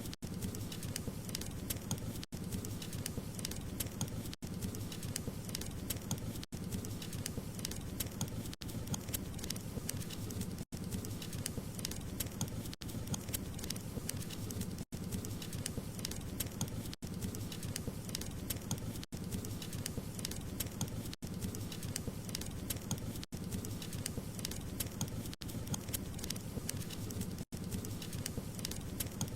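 Wood fire crackling steadily: a dense run of small pops and snaps over a low rumble, broken by a brief gap about every two seconds.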